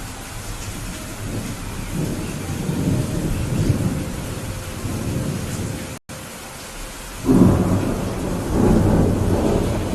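Steady rain with rolling thunder: low rumbles swell in the first half, the sound cuts out for an instant just after the middle, and a louder thunder rumble breaks in about seven seconds in.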